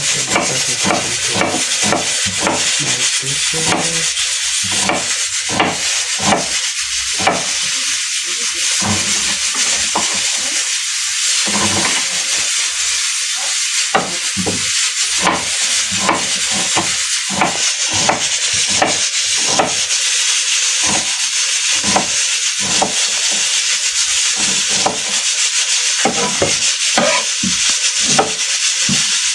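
Red onion being worked with a kitchen utensil: repeated short scraping, knocking strokes, roughly one or two a second, over a steady sizzling hiss.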